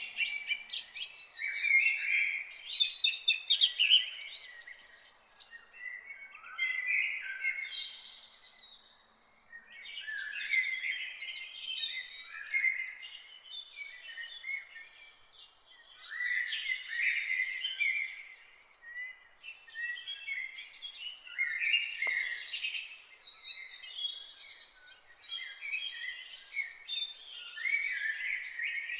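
Several songbirds singing at once in a dense morning chorus of overlapping chirps and song phrases, with brief lulls. One short click about 22 seconds in.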